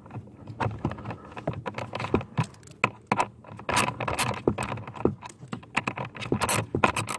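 Hand ratchet clicking irregularly in short runs as a 5.5 mm screw is tightened to hold a new blower motor in place.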